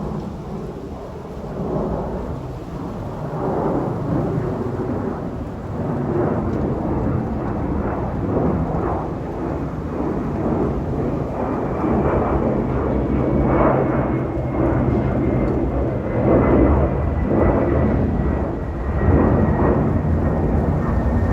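Boeing 767-300ER jet airliner's engines and airframe giving a deep, continuous rumble that grows gradually louder. A faint whine slides slowly down in pitch over the second half.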